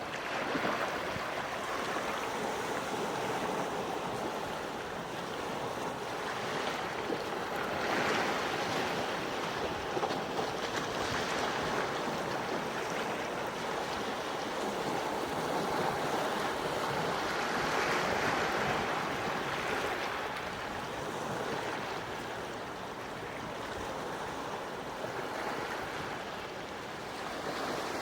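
Gentle sea waves washing on the shore, a steady wash that swells and subsides every several seconds.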